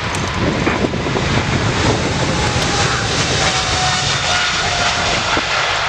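Boeing 777 freighter's twin GE90 turbofans at takeoff power: a loud, steady jet rumble with a faint tone that slowly falls in pitch.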